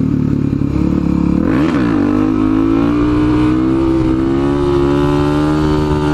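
Motorcycle engine under way: it revs up and drops back once, like a gear change, about two seconds in, then runs at a steady speed.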